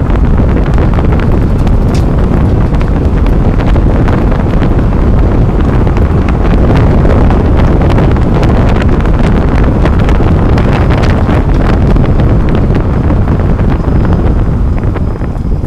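Road and wind noise picked up under a moving 30-series Toyota Prius: a loud, steady rumble of tyres on the road with wind buffeting the microphone, sprinkled with many small clicks and ticks. It grows quieter near the end.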